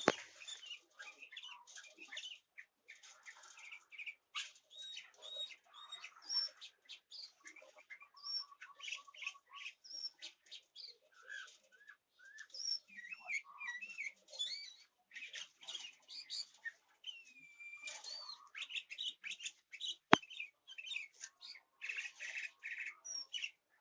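Sooty-headed bulbul (kutilang) calling: a busy run of short chirps and whistled, sliding notes with hardly a pause, and one sharp click about twenty seconds in.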